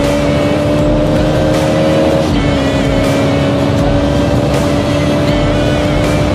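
Motorcycle engine running at steady revs while riding. Its pitch holds level and dips slightly a couple of seconds in, over a steady rushing noise.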